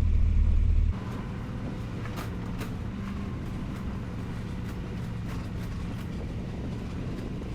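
Engine running steadily with a loud low rumble; about a second in the sound cuts to a quieter, steady engine hum with scattered light clicks.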